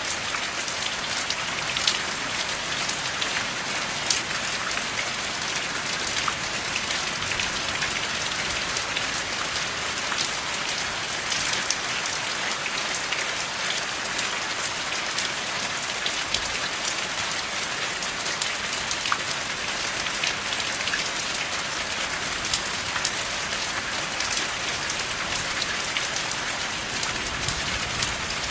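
Steady rain falling: a dense, even hiss with many individual drops ticking sharply, and no thunder.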